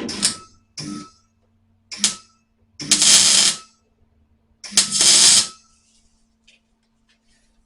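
MIG welder laying short tack welds on car body sheet metal: about five brief crackling bursts, the two longest and loudest about three and five seconds in, over a faint steady hum.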